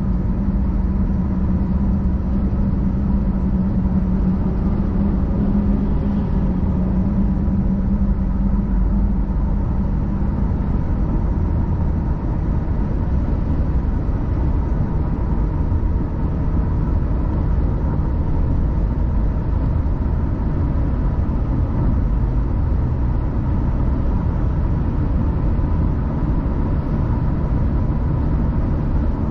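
Car driving at steady speed: an even low rumble of tyres and engine. A stronger low hum sits on top of it and fades out about ten seconds in.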